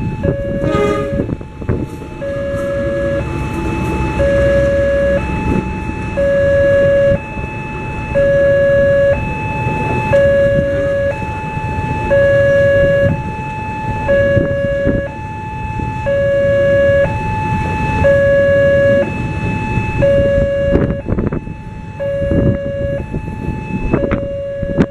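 Level-crossing warning siren alternating between a lower and a higher tone, each held about a second, over the low rumble of a passing train.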